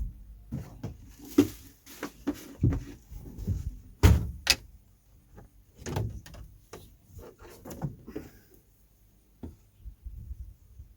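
A run of irregular knocks, thumps and clatters of objects being handled, the loudest about four seconds in, thinning out near the end.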